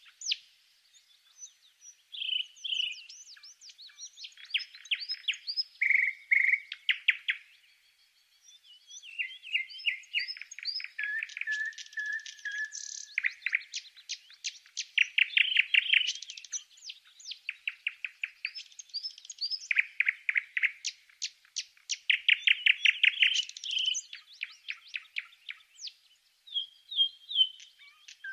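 A small bird singing almost without pause: fast trills of repeated chirps and short whistled notes, with a brief lull about eight seconds in.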